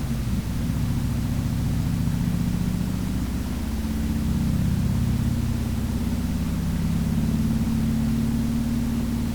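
Harley-Davidson Sportster's air-cooled V-twin engine running under way, its low note easing off about three seconds in and then pulling up again, over steady wind noise on the microphone.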